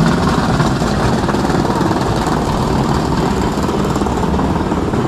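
Rain pattering steadily on an umbrella held just over the camera, a dense continuous noise.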